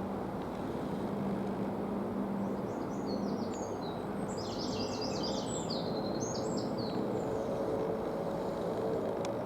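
Airbus A350-900 jet airliner, with Rolls-Royce Trent XWB engines, heard as a distant, steady rumble that slowly grows louder as it approaches. A songbird chirps a quick run of high notes over it in the middle.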